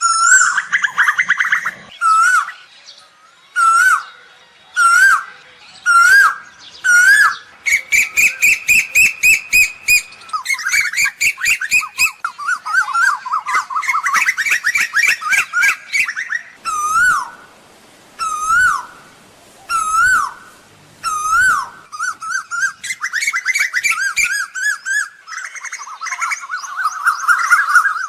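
Asian koel calls: short whistled notes, each with a hooked rise, repeated about once a second. Between them come runs of rapid, fast-repeated notes and longer bubbling trilled phrases.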